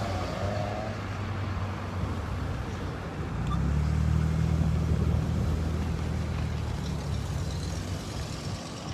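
Motor vehicle engine running close by over steady traffic noise. Its low rumble swells about three and a half seconds in and eases off near the end.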